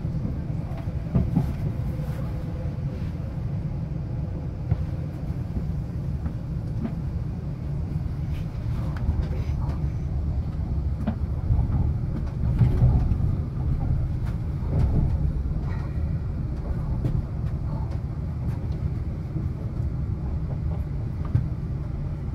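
Inside a passenger train coach: the steady low rumble of wheels on the track, with scattered clicks and knocks as it runs over the rails and pointwork on the approach into a station. The rumble swells briefly about halfway through.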